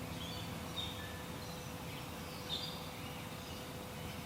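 Wild birds chirping and calling in short, scattered notes over a steady outdoor background hiss, with a faint steady hum underneath.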